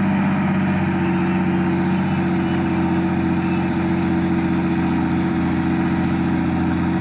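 Helicopter running steadily, a constant engine and rotor drone with a fast, even pulsing.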